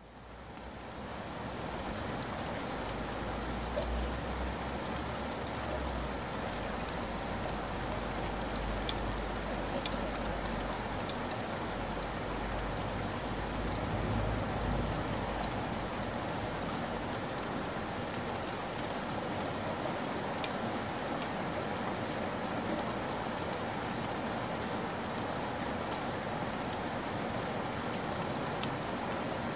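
Steady rain falling, fading in over about the first second, with faint scattered drip ticks. A low rumble runs under it for roughly the first half.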